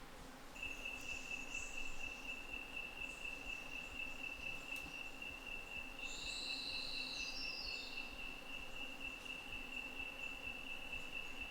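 A nocturnal insect trilling steadily on one high pitch, starting about half a second in. About six seconds in, a second, higher call sounds briefly, ending in a few stepped, falling notes.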